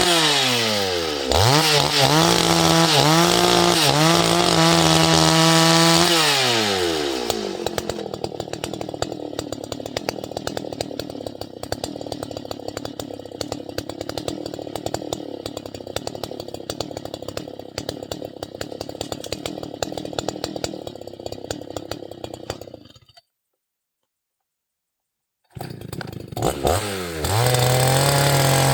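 Two-stroke chainsaw running at full throttle, its pitch dipping and wavering for several seconds. It then drops away to a lower, rough, ticking run. After a short break of silence it revs back up to a high steady pitch near the end.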